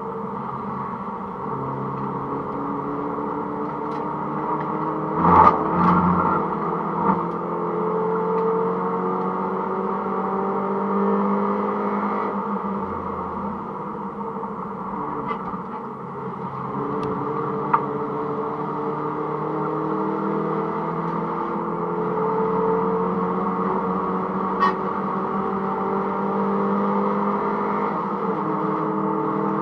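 A Mini Cooper S (R53) supercharged 1.6-litre four-cylinder engine, heard from inside the car, revving up and falling back repeatedly as it is driven hard through the gears on track. A cluster of knocks about five seconds in is the loudest moment, and a few single sharp clicks come later.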